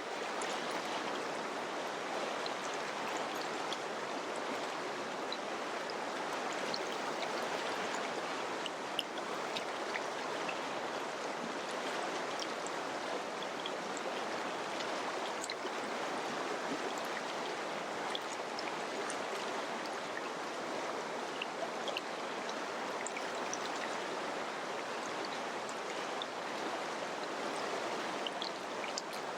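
Mountain river flowing: a steady rush of water with small splashes and droplet ticks scattered throughout.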